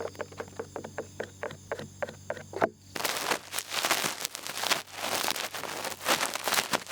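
ASMR ear picking: a small ear pick scrapes in quick ticks, about five a second. About three seconds in, after a brief pause, it gives way to a dense rustling scratch as an ear-twirling stick is twirled in the ear.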